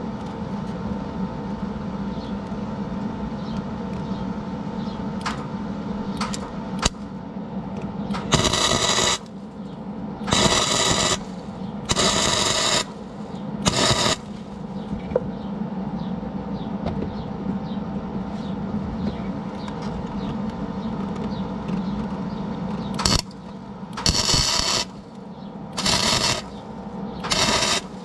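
A series of short welding arc bursts, each a sharp crackling sizzle lasting up to about a second: four close together about a third of the way in and several more near the end, building up weld on a snapped serpentine belt tensioner bolt so it can be turned out. A steady machine hum runs underneath.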